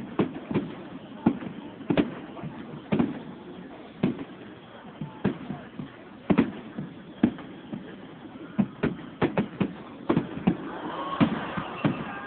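Aerial fireworks shells bursting, a string of sharp bangs with short echoes, about one every half second and coming faster in the second half, with a crackling haze building near the end.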